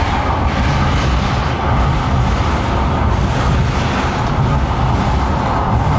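Steady rumble and rushing noise of a moving passenger train.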